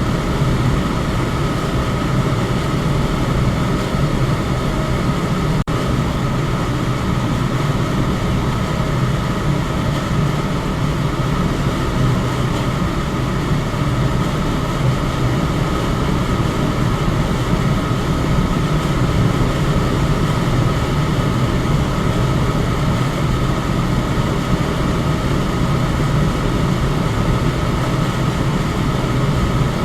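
Electric fan running steadily: an even rush of air with a low hum and a faint higher tone, broken by a brief dip about six seconds in.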